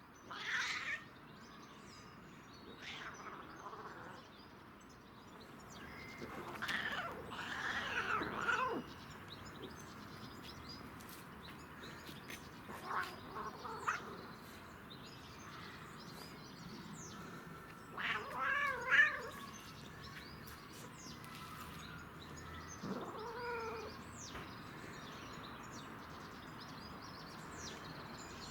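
Domestic cat on catnip giving a series of drawn-out meows and yowls, about six calls with pauses between them. The longest runs for two or three seconds, and one near the middle has a wavering, warbling pitch.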